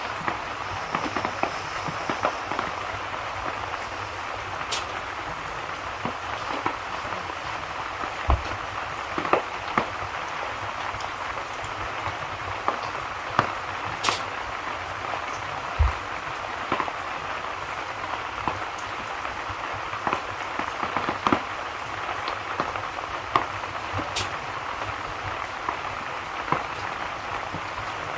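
Steady rain with the irregular pops and crackles of a wood fire burning in a fireplace.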